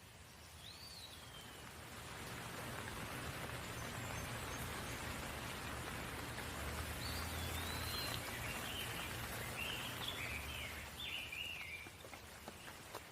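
Steady rain falling, swelling about two seconds in and easing near the end. Short bird chirps break through once near the start and several times in the second half.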